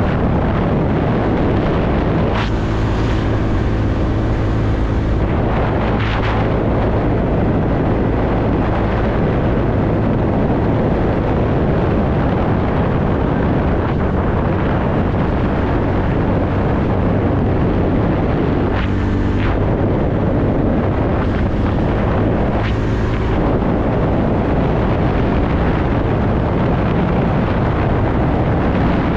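Wind rushing over the microphone while a TVS Ntorq scooter is ridden through traffic, its engine running under the noise. Horns sound three times: a long blast a couple of seconds in, then two short ones about two-thirds of the way through.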